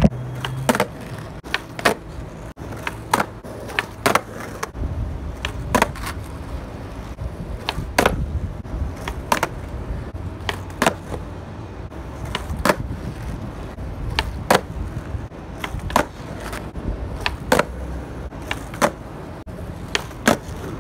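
Skateboard nollies done over and over on asphalt: sharp cracks of the nose popping off the ground and the wheels slapping back down, about one a second. A low rumble of the wheels rolling runs between them.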